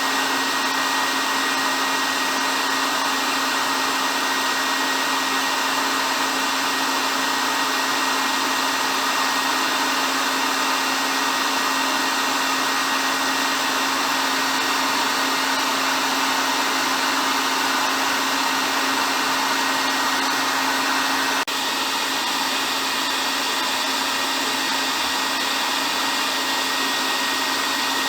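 Hair dryer running continuously: a steady rush of blown air over a constant motor hum. About 21 seconds in the sound shifts slightly and drops a little in level, then carries on unchanged.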